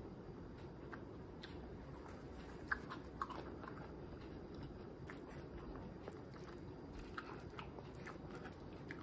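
A person chewing a mouthful of sunny-side-up fried egg with the mouth closed: soft, scattered mouth clicks, with two sharper clicks about three seconds in.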